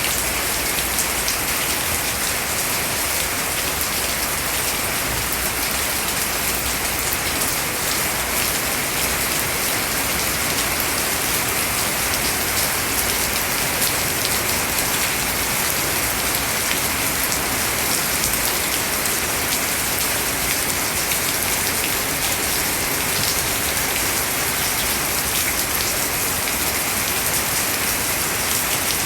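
Steady rain falling, an even hiss of drops pattering on wet leaves and surfaces, with no let-up.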